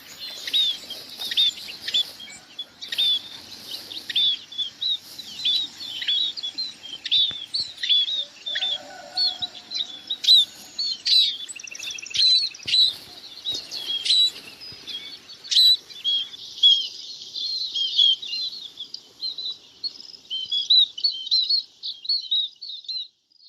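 Munias calling: a steady stream of short, high, downward-slurred call notes, one or two a second, thickening into a dense overlapping flock chorus in the last few seconds.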